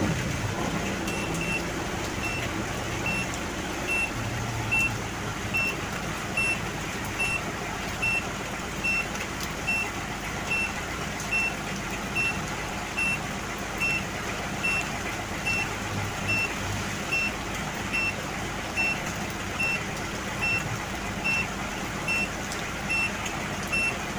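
Ford Everest turbodiesel engine idling with the ignition switched off, kept running by an HKS turbo timer on its 30-second cool-down setting so the turbo can cool. The timer beeps, short and high-pitched, evenly a little faster than once a second while it counts down.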